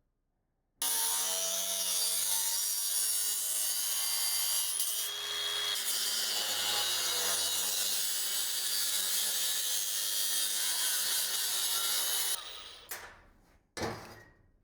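A power tool cutting metal. It starts abruptly, runs steadily for about eleven seconds, then winds down near the end, followed by a short click.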